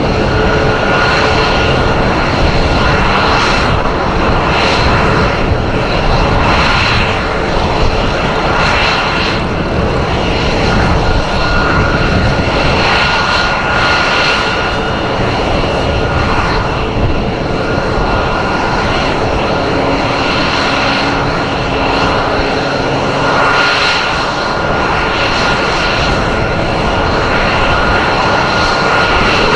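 Aircraft engine noise from a plane in flight, loud and steady, with a thin high whine held throughout and the level swelling and easing every second or two.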